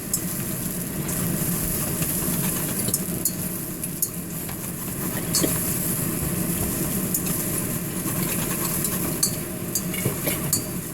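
Onion and garlic sizzling in a hot frying pan as they are stirred, with frequent short clicks of a utensil against the pan. A steady low hum runs underneath.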